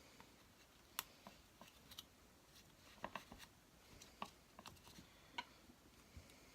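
Near silence with a few faint, scattered clicks and taps, about four of them, from small hard parts being handled.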